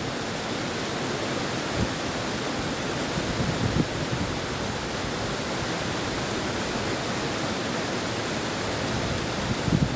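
River water rushing steadily, with a few brief louder splashes.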